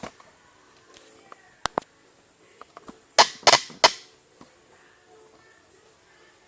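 Kitchen utensil and eggs knocking against a bowl while preparing eggs to beat for an omelette: two quick light clicks, then about a second and a half later three louder sharp clattering strokes.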